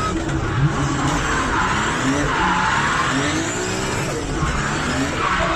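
A 1000 hp Toyota Supra drift car heard from onboard while drifting: the engine revs rising and falling over and over, with the tyres squealing and skidding.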